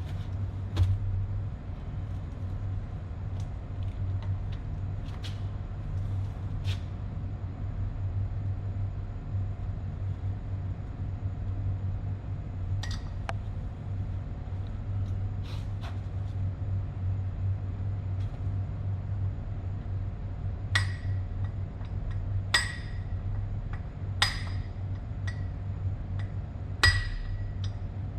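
Sharp metal taps that ring briefly, a few scattered at first and then about one every one to two seconds in the second half, over a steady low hum.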